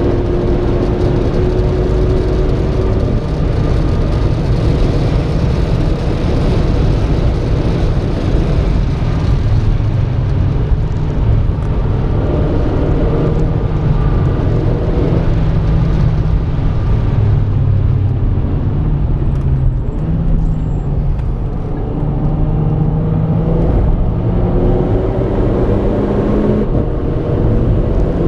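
Renault Clio RS 220's turbocharged four-cylinder engine heard from inside the cabin at speed, its pitch climbing slowly under throttle and stepping down several times as gears change, over steady road and tyre noise.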